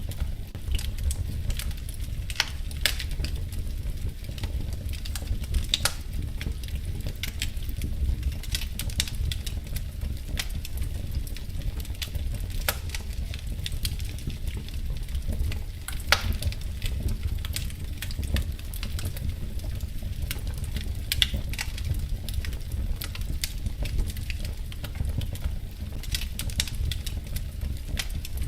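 Wood fire crackling: irregular sharp pops and snaps, a few louder ones, over a steady low rumble of the burning fire.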